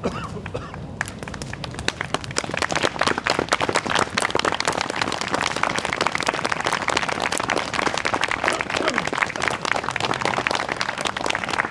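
Audience applauding, the clapping swelling about a second in and then holding dense and steady.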